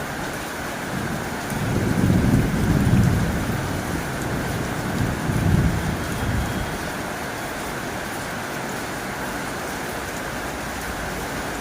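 Heavy rain falling on a tin roof, a steady hiss, with two low rumbles of thunder swelling up, one about two seconds in and another around five seconds in.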